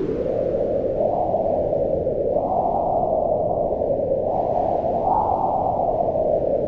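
Howling wind, a steady rushing noise whose pitch swells up and sinks back in slow gusts, rising most about two and a half and five seconds in.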